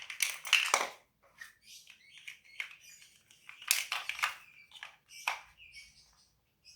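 Plastic Lego pieces clicking and rattling in quick irregular bursts as they are handled and fitted together.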